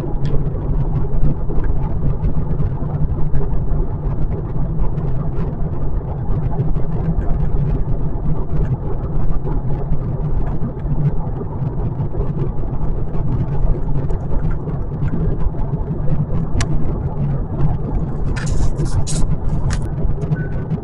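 Steady road and tyre rumble inside the cabin of a 2025 Kia K4 GT-Line cruising at an even speed. Near the end come a few sharp clicks and then a faint repeated beep.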